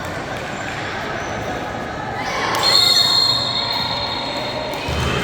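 Basketball game in a gym: the ball bouncing on the court amid crowd and player voices, with a high, steady shrill tone about two and a half seconds in that lasts about two seconds.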